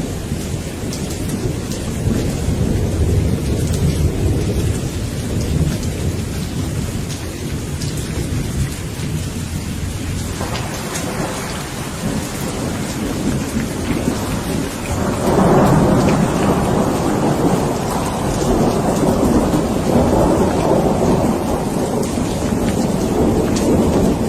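Steady rain with rolling thunder. The thunder rumbles low through the first few seconds, and a louder peal swells up about fifteen seconds in and rolls on to the end.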